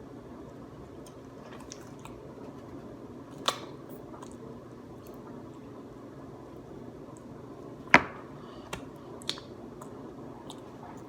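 A few sharp knocks or clicks over a steady low background hum: two louder ones, about three and a half and eight seconds in, with two fainter ones soon after the second.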